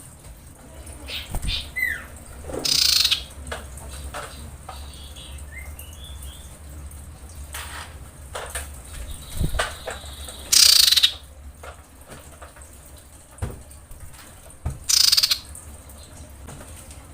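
A female common iora (cipoh) giving its calling-for-a-male lure call: three short, harsh calls spaced several seconds apart, with a few faint thin whistled notes and ticks between.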